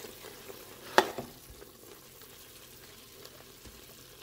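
Spiced tomato masala frying gently in a stainless steel Instant Pot inner pot on sauté mode while a silicone spatula stirs it, with one sharp knock about a second in.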